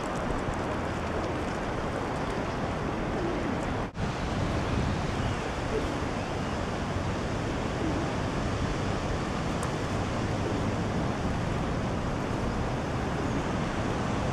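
Steady wind rushing over the microphone, an even rumbling hiss with a brief dropout about four seconds in.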